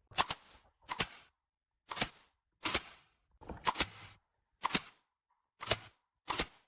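A series of eight sharp double clicks, each a quick pair of snaps with a short ring after, coming a little under a second apart.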